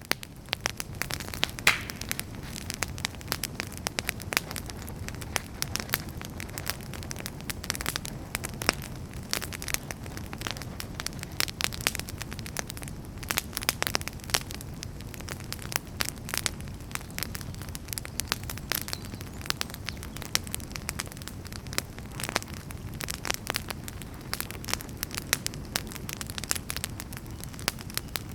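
Wood fire burning in a fireplace: dense, irregular crackles and sharp pops over a steady low rumble.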